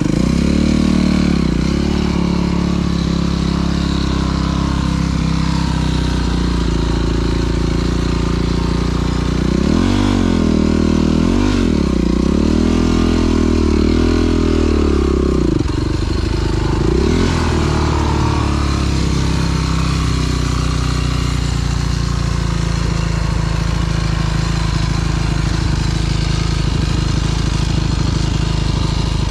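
Dirt bike engine running while riding. It revs up and down in quick swings near the start and again from about ten to sixteen seconds in, then settles to a steadier pitch.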